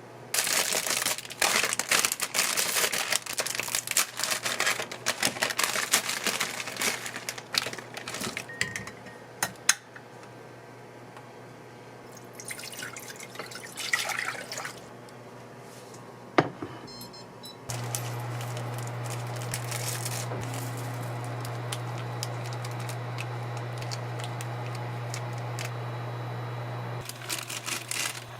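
Kitchen handling sounds, clicks and rustling with some liquid noise. About two-thirds of the way through, a small appliance's steady hum starts, runs for about ten seconds and stops near the end.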